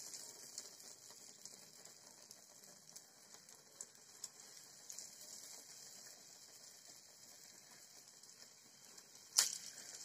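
Urad dal vadai batter deep-frying in hot oil: a faint, steady sizzle with scattered small crackles, easing off slightly after the first couple of seconds. A single sharp click near the end.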